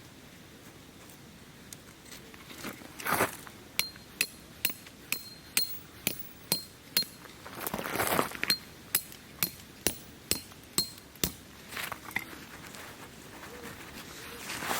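A hammer driving a metal tent peg: a steady run of sharp metallic strikes, a little over two a second, each with a brief high ring. The strikes start about four seconds in and stop a few seconds before the end, with a rustling swell partway through.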